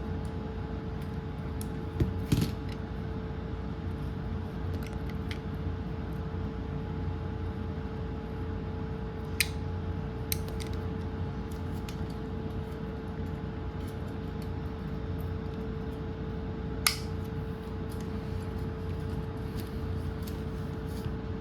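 A steady hum with a few short, sharp clicks of small metal parts and tools being handled, twice close together about two seconds in and then singly later on.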